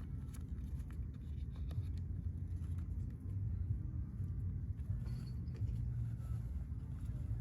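Wood fire burning in a round camping fire pit: a steady low rumble with occasional faint crackles.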